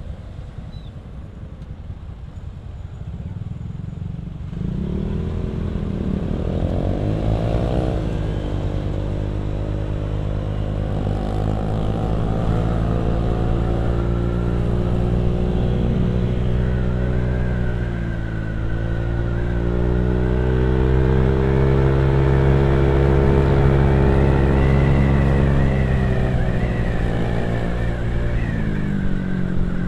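Motorcycle engine and exhaust under way: a low rumble that about five seconds in picks up revs and then runs at fairly steady revs, dipping briefly near the middle, rising again and easing off near the end.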